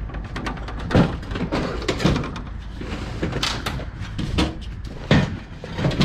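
Scrap metal radiators clanking and knocking as they are handled and set down, a string of sharp metal knocks with short ringing, loudest about a second in and again about five seconds in.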